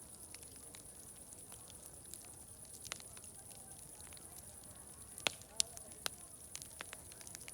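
Wood fire crackling, with irregular snaps and pops and two louder pops a little past halfway. Underneath is a faint murmur of distant voices and a steady high hiss.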